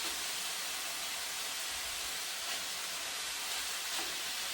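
Chicken pieces and sliced carrot frying in vegetable oil in a pan, a steady sizzle.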